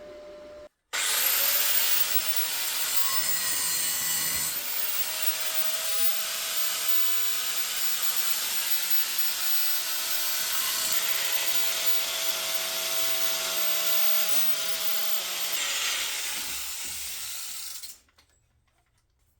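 Power grinder spinning up about a second in and grinding down a freshly welded steel patch, a steady, loud, even grinding that cuts off near the end.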